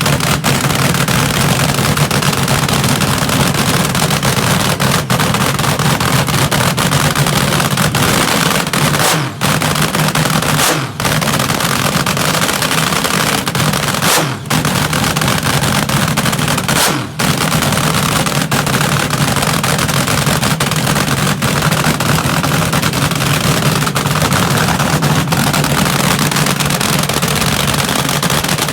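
Front-engine dragster's engine running loud and steady with a fast, rattling firing beat. The level dips briefly four times in the middle stretch.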